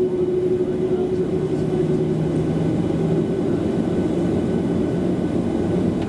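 Boeing 737's jet engines running, heard from inside the passenger cabin as a steady rumble with a hum. One steady tone fades about two seconds in as a lower one comes in.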